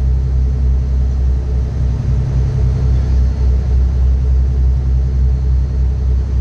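Strong wind buffeting the microphone: a loud, deep, continuous rumble that wavers in strength.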